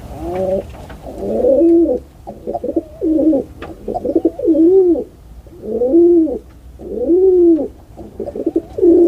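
Dove cooing: a string of low coos, each rising and falling in pitch, following one another.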